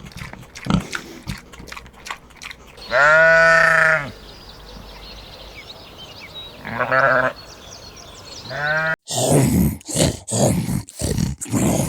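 Three bleating animal calls: a long, loud arching one, then two shorter ones with a wavering tone. Near the end it changes abruptly to a run of short, rough, noisy animal sounds.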